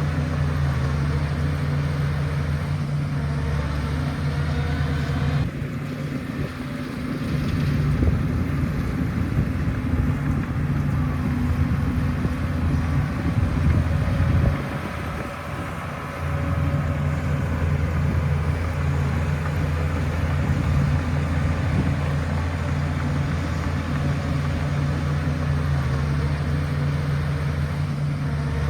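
Shantui bulldozer's diesel engine running with a steady low hum. From about six seconds in, a louder, rougher clattering noise takes over for roughly ten seconds, then the steady engine note returns.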